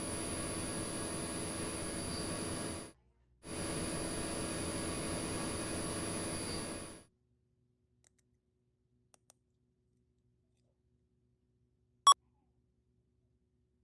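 Two steady hissing buzzes with a thin high whine running through them, about three seconds each with a short break between. Much later comes a single short, sharp beep, the loudest sound.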